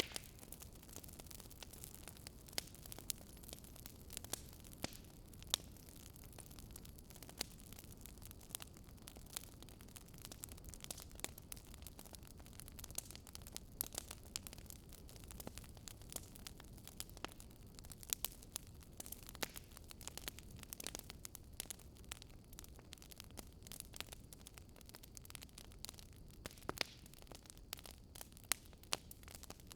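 Wood fire crackling in a fireplace: irregular sharp pops and snaps over a soft, low rushing of the flames.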